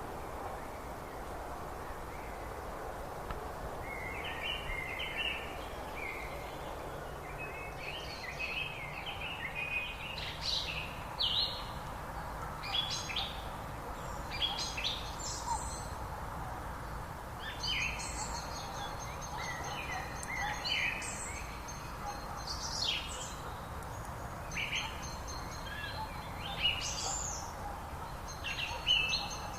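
Several songbirds singing in short, varied, high phrases over a steady background hiss. The song starts about four seconds in and grows busier.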